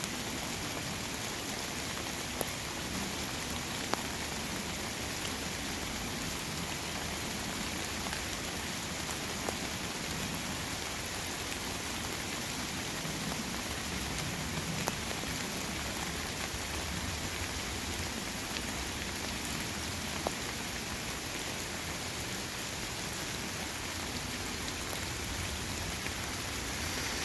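Steady rain falling on rainforest vegetation, an even hiss with a few single louder drops striking close by.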